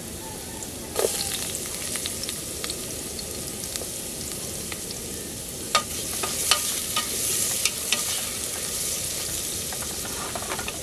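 Sliced aromatics sizzling in hot oil in a camping pot, the sizzle growing louder after a knock about a second in. A wooden spatula stirs them, with sharp taps and scrapes against the pot in the second half.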